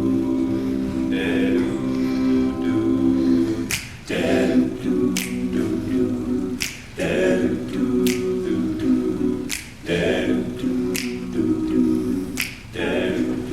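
A cappella voices singing sustained wordless backing chords, with finger snaps keeping the beat about every one and a half seconds from about four seconds in.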